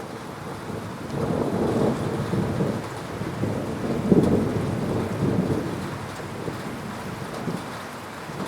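Thunder rumbling over steady heavy rain. The rumble swells about a second in, peaks sharply around four seconds in, then fades away.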